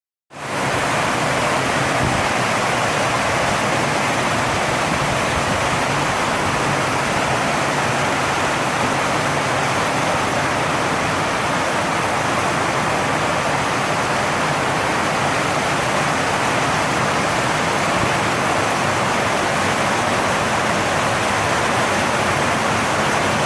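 Heavy rain drumming steadily on a tin roof, a dense, unbroken downpour.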